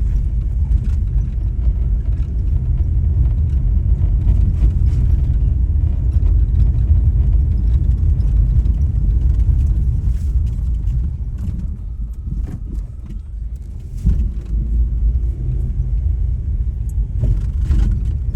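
Low rumble of a moving vehicle on the road, road and wind noise with no speech. It eases for a couple of seconds past the middle, then comes back suddenly.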